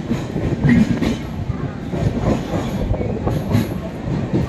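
Passenger train rolling along a station platform, heard from the doorway of the moving train: a steady running rumble with scattered wheel clatter over the rail joints.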